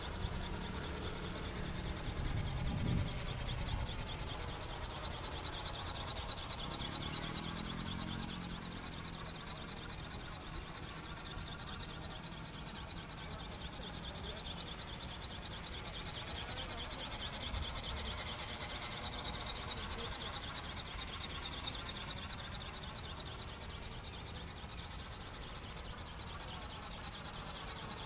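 A model flapping-wing bird buzzing in flight, a fast steady whirr whose tone slowly rises and falls as it circles.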